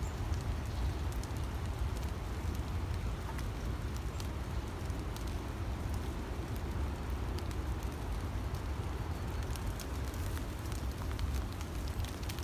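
Steady low rumble with a faint crackling patter and scattered light ticks over it, as of outdoor noise in a forest.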